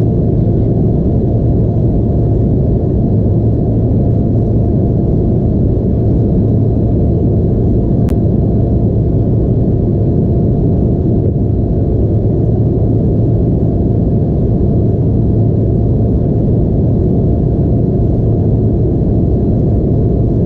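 Steady low drone of an Embraer E175's twin GE CF34 turbofans heard from inside the passenger cabin, with a constant deep hum and no change in pitch. A single faint click about eight seconds in.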